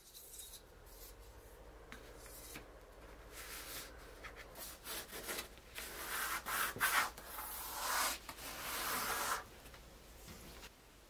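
Paper of a large woodcut print rasping against a metal ruler as it is worked along the sheet's edge. It starts as a few soft rubs, turns to louder, longer rasps in the second half, and stops about a second before the end.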